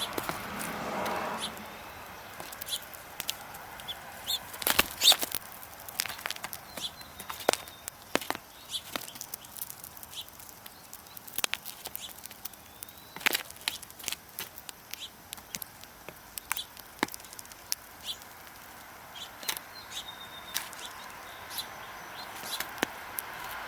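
Birds moving about close by: irregular sharp clicks and brief wing flutters, with a few short high chirps.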